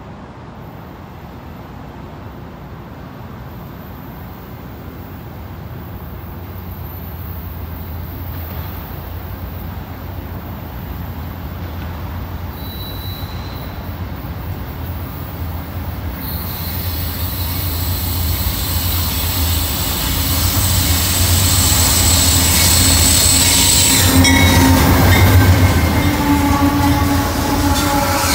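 BNSF diesel-electric freight locomotive approaching and passing, its engine drone growing steadily louder, with steel wheels squealing on the curving track as the train draws alongside.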